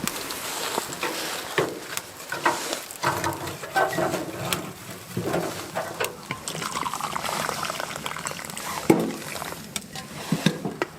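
A wood stove being lit: irregular crackling and snapping as the kindling catches, mixed with scattered knocks and clatter of handling.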